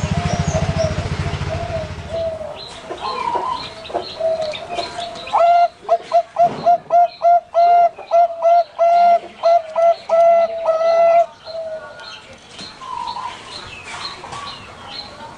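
Bangkok-line zebra doves (perkutut) cooing: a steady run of soft coo notes, then from about five seconds in a loud series of rapid staccato coos, about two or three a second, that stops abruptly near eleven seconds. Other small birds chirp faintly throughout, and a low hum fades out in the first two seconds.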